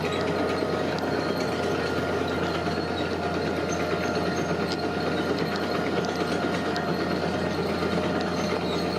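Heavy earth-moving machinery running steadily: a diesel engine at work with a continuous mechanical clatter.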